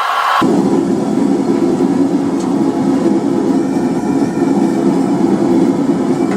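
Forge running with a steady, even rushing noise; no hammer blows.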